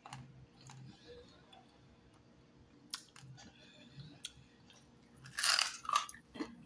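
Close-up chewing of crispy deep-fried turtle, with small wet mouth clicks, then a louder crunchy bite about five and a half seconds in.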